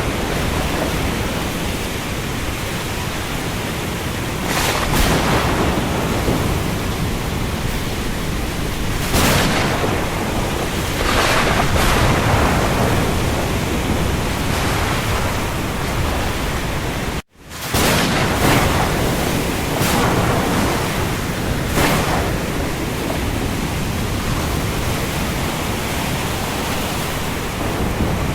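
Steady heavy rain hiss over open sea, with louder swells of wash every few seconds. It cuts out completely for a split second about two-thirds of the way through, then resumes.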